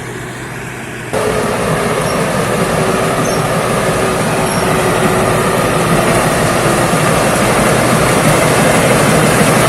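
Thai Seng Kaset rice combine harvester running while it harvests: a steady, dense mechanical noise with a faint steady hum, which gets suddenly louder about a second in.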